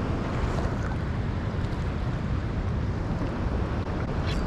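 Steady rushing of a large waterfall: a dense, even wash of water noise, heaviest in the low end.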